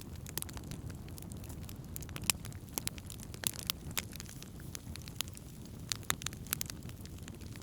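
Wood campfire crackling: irregular sharp pops and snaps of burning wood, one loudest about two seconds in, over a steady low rumble.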